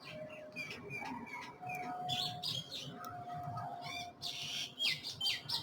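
Birds chirping: many short high calls and quick sweeping notes, with a few longer held whistles, busiest near the end.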